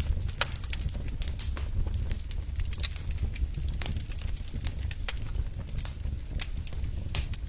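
Fire in a fireplace crackling: irregular sharp pops and snaps, several a second, over a steady low rush of the burning.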